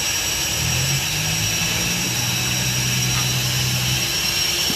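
Steady mechanical drone of running machinery with a thin high whine, and a low hum that comes in about half a second in and stops near the end.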